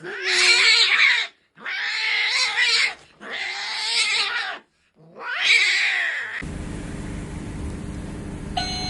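A cat yowling in four long, wavering calls with short pauses between them. A little after six seconds this cuts to a steady low hum, and an electronic door chime begins just before the end.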